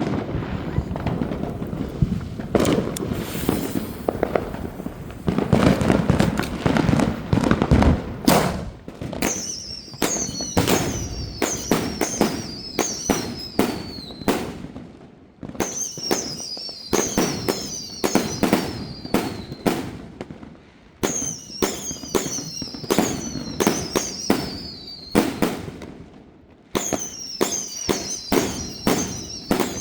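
A 36-shot whistle-to-salute firework cake firing. After a rough, noisy opening stretch with scattered bangs, it fires in four rapid volleys of shots with a sharp bang each and high whistles falling in pitch, with short pauses between volleys.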